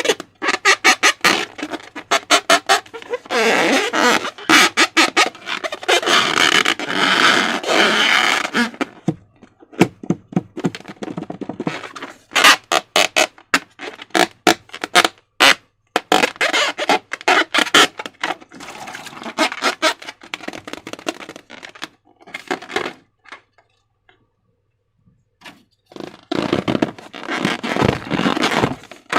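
Slime being squished and stretched by hand: quick wet clicks, crackles and squelches in bursts, with a short pause near the end.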